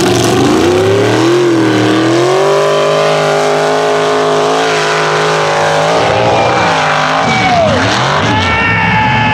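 Mega mud truck engine running hard at high revs, held steady for a few seconds, then dropping and swooping up and down before holding high again near the end.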